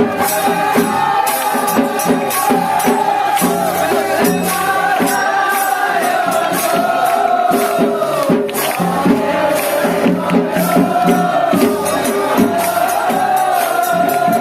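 Devotional aarti music: voices singing a held, wavering melody over a steady beat of rhythmic percussion.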